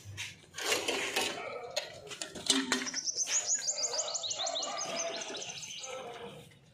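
A few knocks and handling clatter, then a bird sings a fast trill of repeated high, falling notes for about three seconds.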